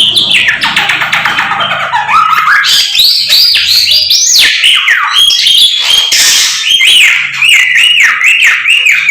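A samyong (Chinese hwamei) singing loudly in a continuous run of varied whistled phrases, rising and falling in pitch, ending in a quick series of repeated slurred notes, about three a second.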